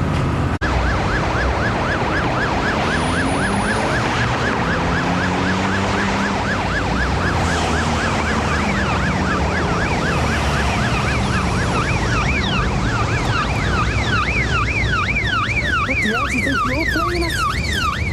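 Police car sirens on a fast rising-and-falling yelp over the rumble of car engines. From about twelve seconds in, a second siren sweeping higher and wider joins the first.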